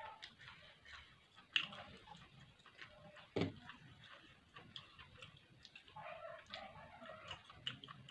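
Close-miked eating sounds: chewing with irregular soft mouth clicks and ticks, and two sharper clicks about one and a half and three and a half seconds in.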